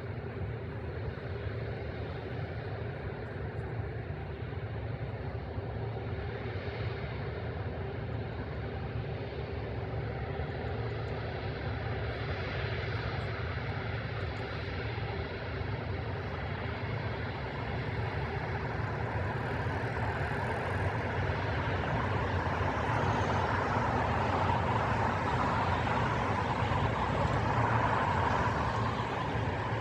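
Airbus A330-300's Rolls-Royce Trent 700 jet engines, a steady rumbling jet noise that grows gradually louder, rising most in the second half.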